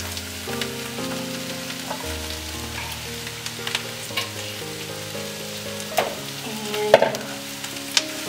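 Shredded cabbage tipped into a hot pan of oil and spices, sizzling as it fries, with a few sharp knocks and scrapes in the last few seconds as it is pushed down and stirred with a wooden spoon. Soft background music of slow, held notes plays underneath.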